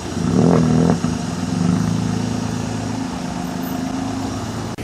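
A vehicle engine running steadily, louder for a moment about half a second in.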